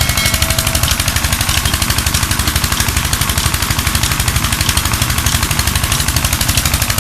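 Petter diesel engine running steadily under load on a tube well pump, with a fast, even exhaust knock of about seven or eight beats a second.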